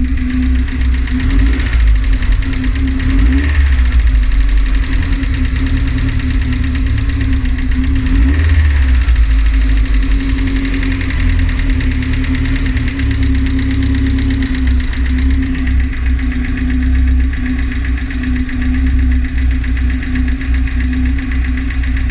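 Rover K-series four-cylinder petrol engine idling, with a fast, even ticking over its running.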